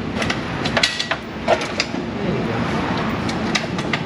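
Scattered light metallic clicks and knocks over a steady low shop hum, as a transmission dipstick tube is worked into its hole in the transmission case.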